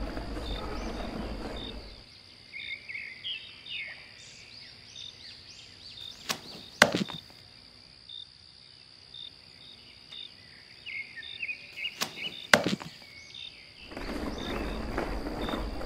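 Outdoor nature ambience: birds chirping and a steady high insect trill, with short regular chirps about twice a second. Two sharp clicks come about five and a half seconds apart, midway through. A rushing hiss fills the first and last couple of seconds.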